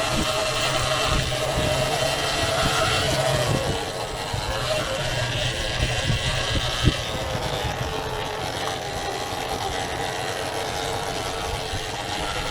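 Sur-Ron Ultra Bee electric dirt bike riding along a rough trail: a steady electric motor whine that drops in pitch about four seconds in as it slows, over constant rattling from the chassis and tyres, with one sharp knock a little past halfway.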